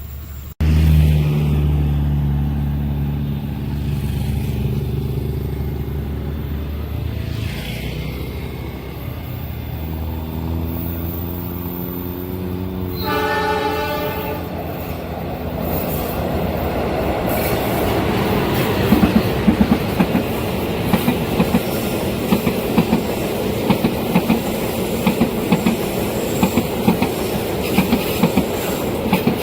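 Diesel train approaching and passing: the locomotive engine running steadily, a short blast of the horn about halfway, then the cars clattering over the rail joints in a steady clickety-clack.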